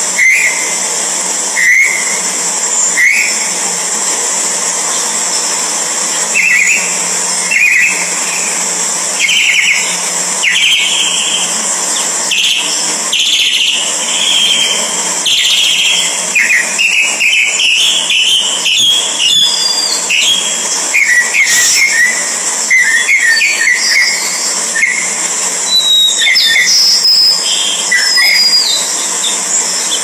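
Birds chirping: short whistled chirps, some rising and some falling in pitch. They come irregularly, sparse at first and much denser in the second half, with a few higher notes near the end, over a steady hiss.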